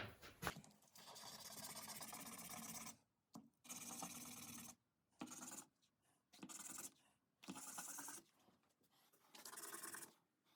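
Faint rasping as a carbon starter-motor brush is ground down by hand against an abrasive, in about six stroking bouts of half a second to two seconds with short pauses between.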